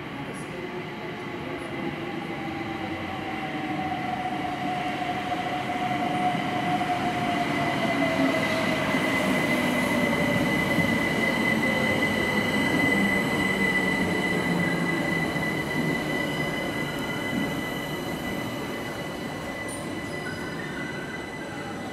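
London Overground electric train running into an underground platform and braking to a stop. A rumble builds as it enters and eases as it slows, under a high steady squeal and a whine that falls slowly in pitch as it loses speed.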